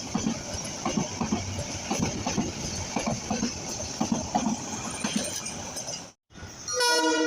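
Train running past with a steady rumble and irregular clatter of wheels on rail. After a sudden cut about six seconds in, a locomotive horn starts to blow, loud and steady with several tones at once.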